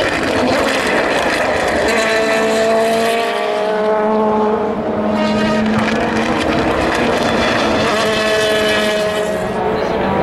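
Several endurance race cars' engines running at speed, their overlapping engine notes holding a fairly steady pitch.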